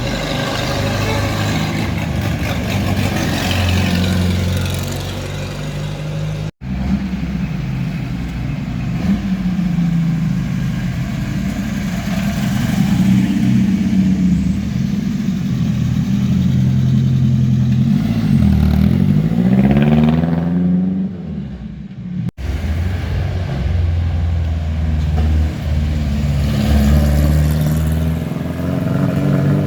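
Classic car engines running, with revs rising and falling; one engine is blipped up and back down about twenty seconds in. The sound breaks off abruptly twice where the recording is cut.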